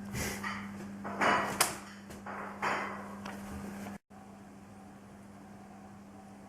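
A few short knocks and scrapes, like handling or a door being shut, over a steady low hum; about four seconds in the sound cuts off abruptly and only a quieter steady hum remains.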